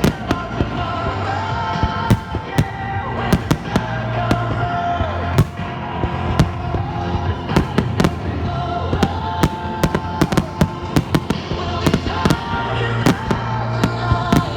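Fireworks shells bursting in a rapid, irregular string of sharp bangs, several a second at times, over music playing.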